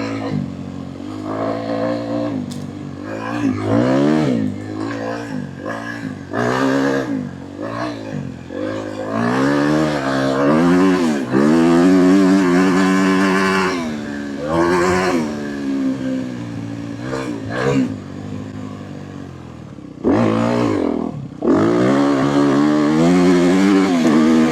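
Honda dirt bike engine revving hard and backing off again and again while it is ridden, its pitch climbing and dropping with the throttle and gears. Near the end the sound dips briefly, then picks up sharply again.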